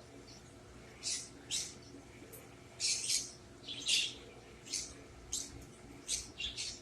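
A pet bird chirping: a string of short, high chirps, some in quick pairs, starting about a second in and repeating irregularly.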